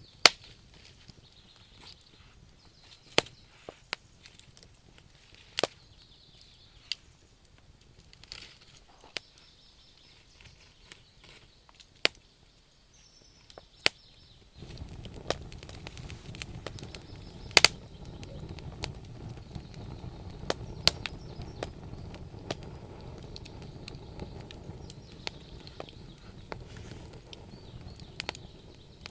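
Wood fire burning, with sharp crackles and pops from the logs at irregular intervals. About halfway through, a steady low rumble of flames sets in under the crackling.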